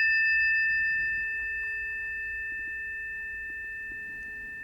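Planetary tuning fork ringing after being struck, a few steady pure tones slowly fading away.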